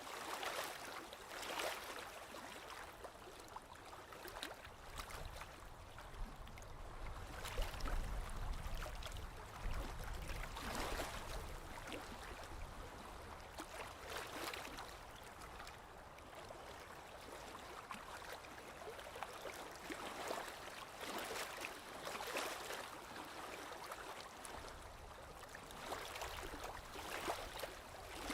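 Small waves lapping on a lakeshore, soft splashes coming every one to three seconds. A low rumble runs underneath from about five to twelve seconds in.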